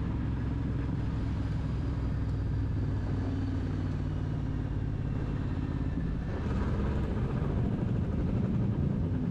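Motorcycle engine running steadily while riding, with road and wind noise, getting a little louder about six and a half seconds in.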